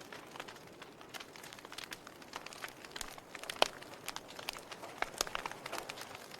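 Wood fire burning in a fireplace, with irregular sharp crackles and pops over a soft steady hiss; one louder pop comes a little past halfway.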